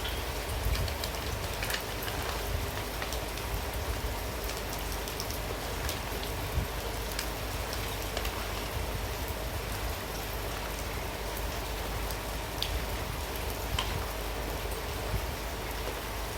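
Heavy rain falling steadily, with scattered sharper drop ticks and a low rumble underneath.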